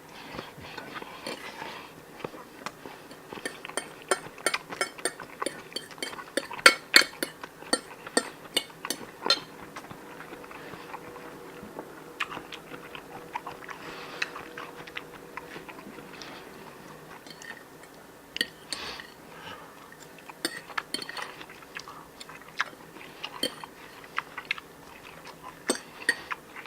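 Close-up eating sounds: chewing, with many sharp clicks and taps that come in two busy spells, the first in the first half and the second near the end.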